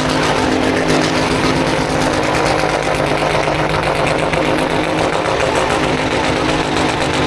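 Car engine running loud at a steady, held speed, its note not rising or falling.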